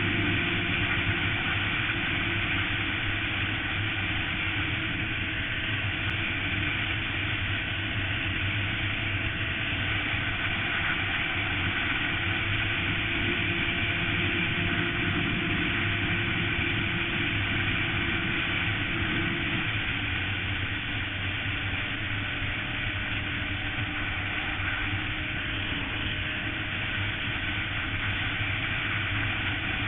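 Suzuki GSX-R sportbike riding at a steady speed, its engine note holding nearly constant under a continuous rush of road and wind noise.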